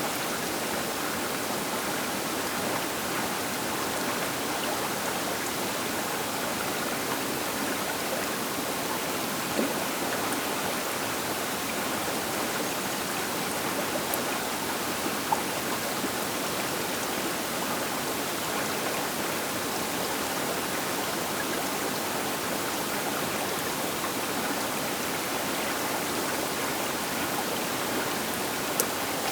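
Baker River flowing, a steady rushing of water with a few faint splashes and ticks.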